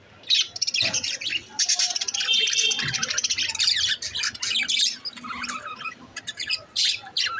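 Budgerigar (parakeet) chirping and warbling: quick runs of high chirps and squawks that thin out a little past the middle.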